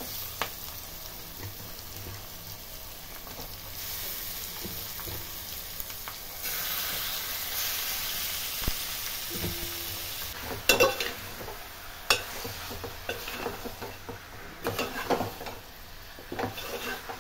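Marinated chicken sizzling in hot oil with onions and green chillies in an aluminium pot, louder in the middle, while it is stirred; the spoon gives a few sharp clinks and scrapes against the pot in the second half.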